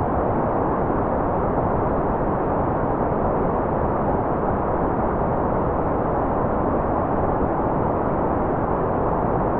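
Steady, unbroken white noise at an even level, muffled, with most of its energy in the low and middle range and no high hiss.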